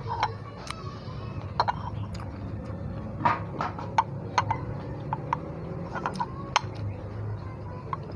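Crisp crunching of raw jicama being bitten and chewed close to the microphone: sharp crunches at irregular intervals, over a steady low hum.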